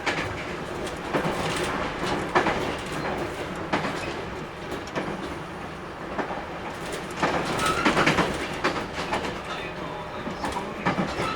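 JR Kyushu 811 series electric train running: a steady rumble, with its wheels clacking over rail joints roughly once a second and a quicker run of clacks about seven to eight seconds in.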